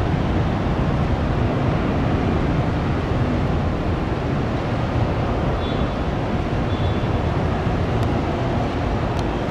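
Jet airliner engines: a steady low roar.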